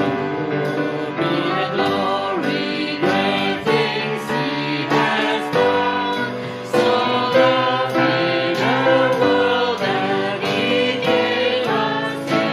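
A hymn sung by a group of voices with piano accompaniment.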